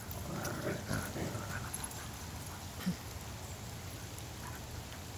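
Dogs making short vocal sounds in the first couple of seconds, then a single knock about three seconds in, over a steady hiss of pouring rain.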